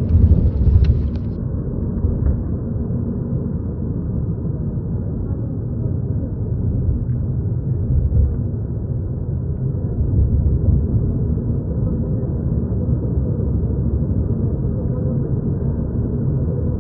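Steady low rumble of a moving vehicle on the road, with a few heavier low thumps about a second in and again around eight and ten seconds in.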